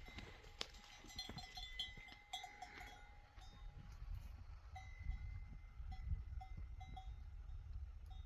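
Small bells on a flock of livestock tinkling, clustered in the first few seconds and then ringing at a fairly even pace, over a faint low rumble.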